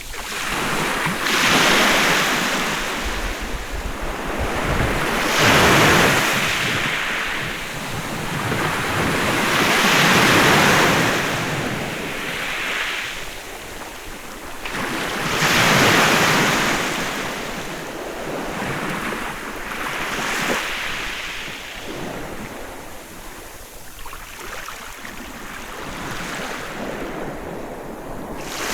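Sea waves breaking and washing up a beach, the surf swelling and fading about every four to five seconds.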